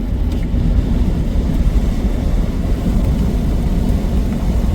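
Steady low rumble of road and engine noise from a car driving on the highway, heard from inside the cabin.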